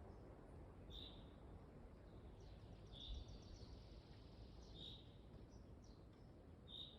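Faint forest ambience in windy weather: a low, steady rush of wind, with a bird repeating a short high call about every two seconds and a brief higher twittering near the middle.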